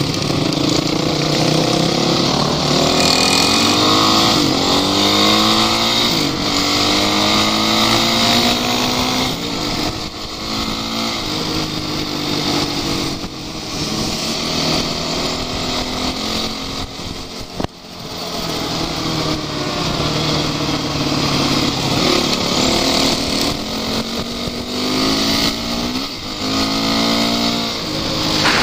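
Off-road vehicle engines revving hard, their pitch rising and falling again and again, with a brief drop and a click about two-thirds through.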